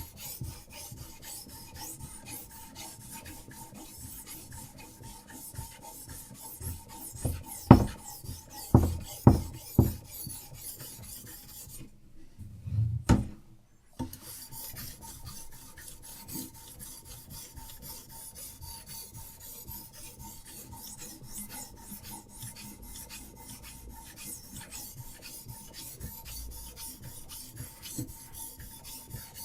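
Diamond sharpening stone on a guided-rod knife sharpener, rasping back and forth along a steel knife blade in many quick, steady strokes. A few loud knocks come around eight to ten seconds in. The stroking stops briefly about twelve seconds in, with a low thump, then resumes.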